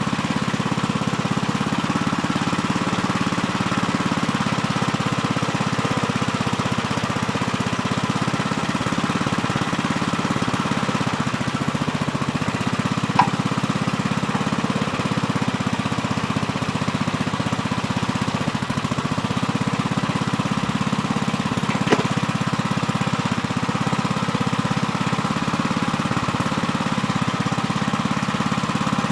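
Gravely Terramite compact backhoe's engine running steadily while digging, with two short sharp clicks, one about halfway through and another some nine seconds later.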